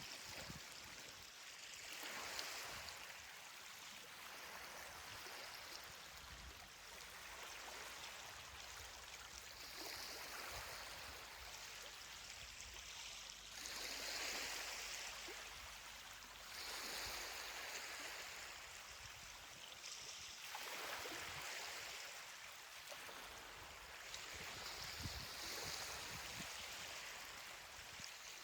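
Ocean surf washing onto a beach, the hiss of water swelling and fading every few seconds.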